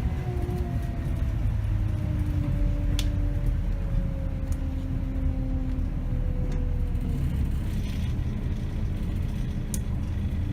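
2008 Scania K270 city bus driving along, heard on board: a steady low engine and road rumble with a whine that slowly falls in pitch. A few sharp clicks stand out over it.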